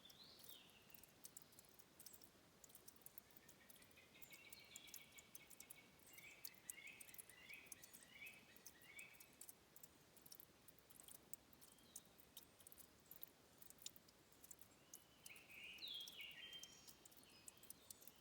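Faint birdsong: a bird repeats a short phrase of quick notes several times, then sings another brief burst near the end. A light scatter of sharp, high ticks runs underneath.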